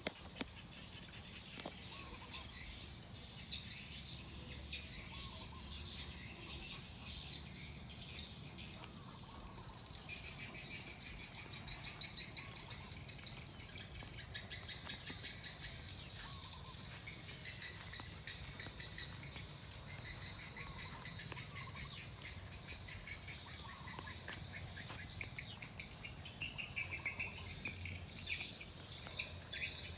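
Small birds chirping and twittering with insects trilling. A fast, even run of chirps stands out from about ten to fifteen seconds in.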